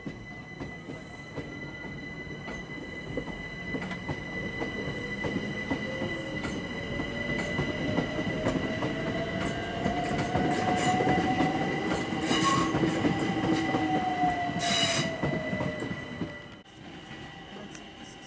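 London Overground electric train passing close by: rumbling wheels on the rails and a motor whine that climbs in pitch and then falls, growing louder as it goes. Two short, high-pitched wheel squeals come near the end, and the sound then cuts off suddenly to a quieter background.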